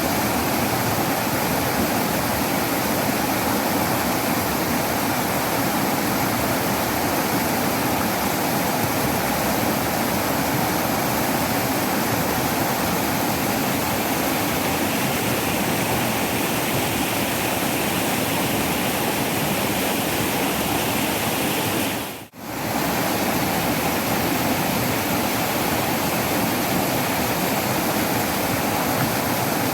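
Waterfall rushing steadily, a dense, even roar of falling water. About three-quarters of the way through it drops out for a split second, then carries on unchanged.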